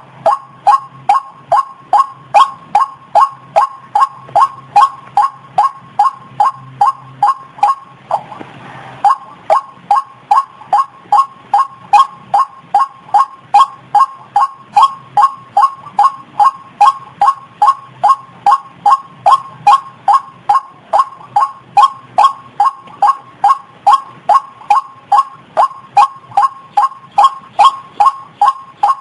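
White-breasted waterhen calls repeated as a lure recording: one loud, even note over and over, about two a second, with a short break about eight seconds in.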